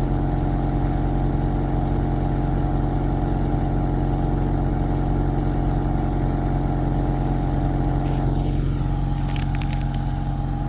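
A 1991 Pontiac Sunbird's GM four-cylinder engine idling steadily in freezing weather after a cold start. Near the end a falling whistle-like tone and a few short high hisses sound over it.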